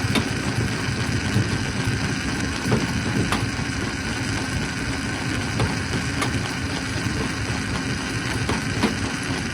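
Stone crusher machine running steadily, with a constant mechanical drone and a steady tone over it. Scattered sharp knocks break in at irregular intervals, about six or seven times.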